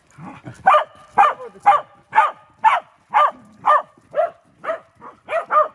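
Welsh corgi barking repeatedly, about two short barks a second.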